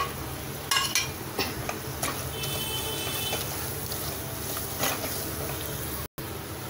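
Onion masala frying in a metal pot with a steady sizzle, while a wooden spatula stirs it and knocks and scrapes against the pot a few times.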